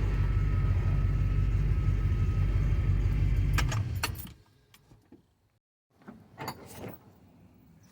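Truck engine running steadily as the truck drives, with light rattles, until the sound cuts off abruptly about four seconds in; a few faint clicks and rattles follow.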